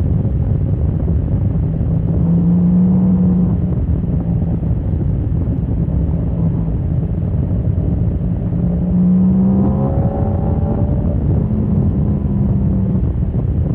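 Motorcycle engine at track speed, nearly buried under heavy wind noise on the microphone. The engine note strengthens around two to three seconds in, then rises in pitch under hard acceleration around eight to ten seconds in.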